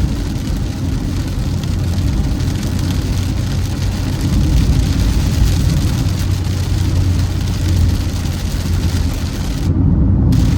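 Car driving on a highway: steady low rumble of engine and tyres with road hiss. Near the end the hiss cuts out for about half a second, leaving only the low rumble.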